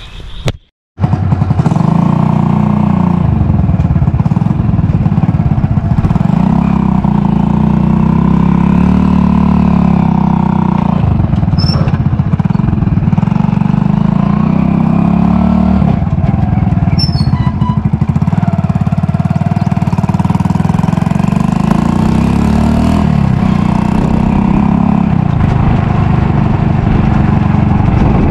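Motorcycle engine running steadily while being ridden, its pitch shifting slightly with speed.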